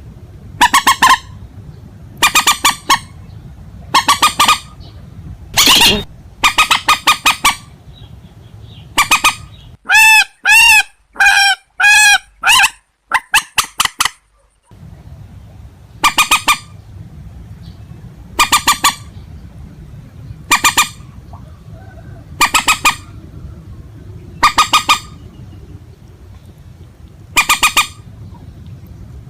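Recorded calls of purple swamphen and white-breasted waterhen: loud, harsh, nasal calls repeated every second or two, with a run of about seven clearer, pitched calls in quick succession around the middle.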